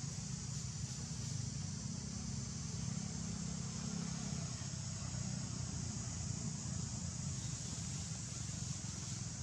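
Steady high-pitched insect drone with a continuous low rumble beneath it, ambient sound of an outdoor setting.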